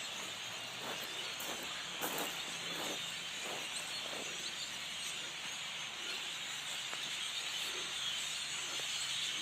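A huge flock of birds calling together in a tree, a dense, steady wash of countless overlapping chirps.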